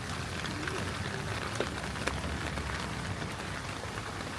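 Heavy rain falling steadily, with a few sharp drop ticks standing out, the clearest about a second and a half and two seconds in.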